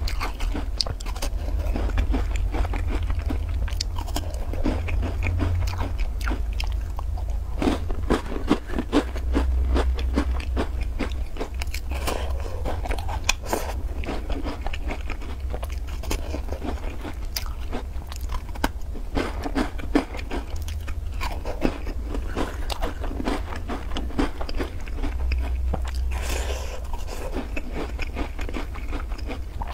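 Close-miked biting and chewing of crisp black-sesame taosu (Chinese shortbread cookies), with many irregular, crumbly crunches over a steady low hum.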